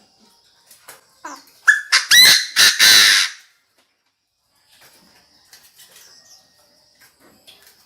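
Chinese francolin calling: one loud, harsh burst of several quick notes about two seconds in, lasting about a second and a half, with faint clicks before and after.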